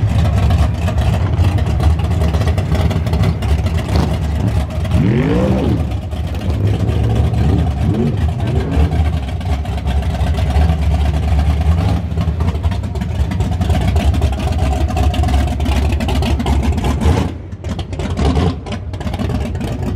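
Muscle car engine running with a loud, low rumble. It is revved up and back down once about five seconds in, with a smaller blip a few seconds later.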